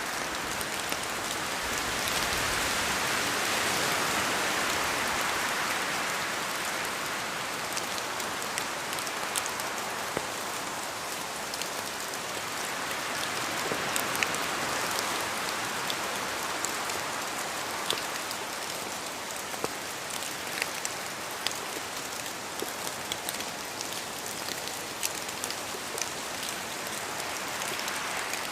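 Steady rain falling in a forest, swelling louder twice as gusts of wind pass through the trees, with single drops ticking close by, more often near the end.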